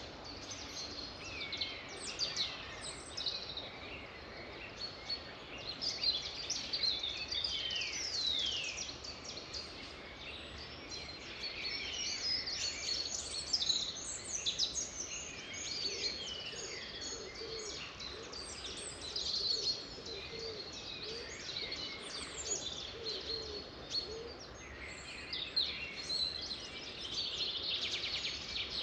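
A chorus of several songbirds singing and chirping at once, with many quick overlapping chirps and falling whistles over a steady background hiss.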